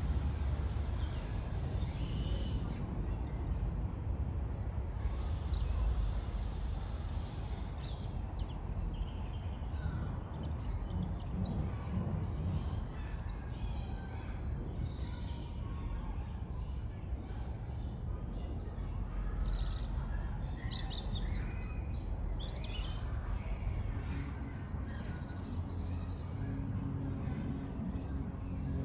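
Birds chirping and calling in scattered short notes over a steady low rumble of distant traffic.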